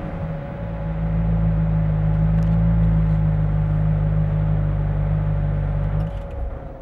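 Corvette C6 Z06's 7.0-litre LS7 V8 idling steadily through its exhaust, then falling quiet abruptly about six seconds in.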